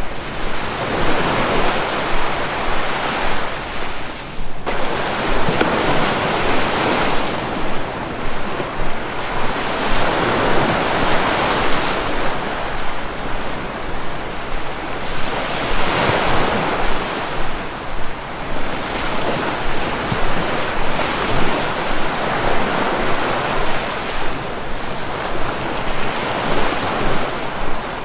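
Sea waves washing and breaking on the shore, a continuous rush that swells and falls back every few seconds.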